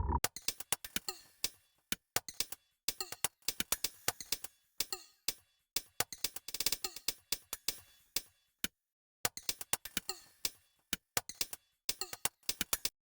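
Sparse short clicks and taps at irregular intervals, a few a second, with a brief cluster about six and a half seconds in and dead silence between them.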